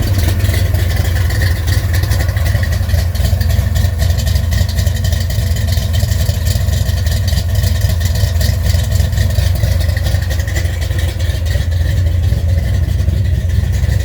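1975 Ford F-250's rebuilt FE 390 V8, with a Comp Cams 279 Thumper cam, idling steadily through Headman headers and Summit mufflers. The engine is cold, not run since the night before.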